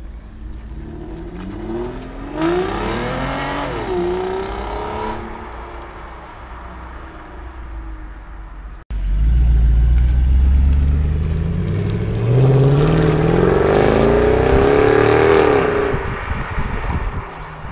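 Car engines accelerating hard past: one rising run of revs from about two to five seconds in, then, after a cut, a loud low rumble followed by a longer rising run that peaks and falls away near the end.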